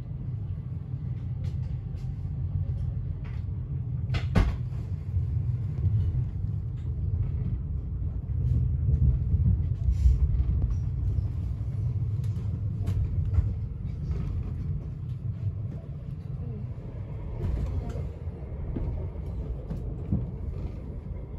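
Express train heard from inside the passenger carriage: a steady low rumble of the train running on the rails, with scattered clicks and a sharp knock about four seconds in.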